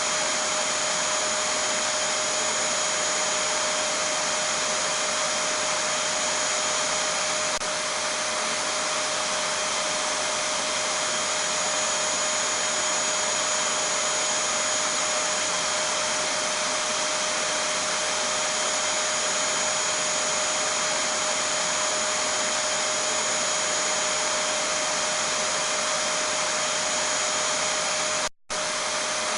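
Vacuum cleaner (hoover) motor running steadily, a constant rushing hum with a steady whine over it. It cuts out for a split second near the end.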